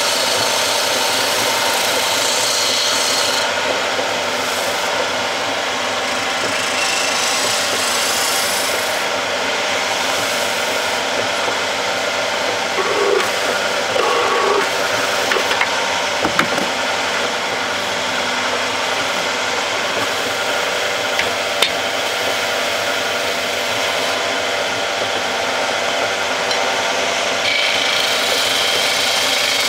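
Wood lathe running while a turning tool cuts a spinning wooden blank, a steady scraping of wood being shaved away over the motor's hum. A few short knocks come in the middle.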